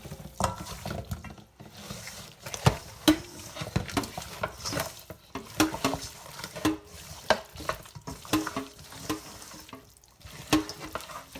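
Raw chicken pieces being moved around by hand in a bowl to spread the seasoning: irregular knocks and taps against the bowl, some with a brief ring.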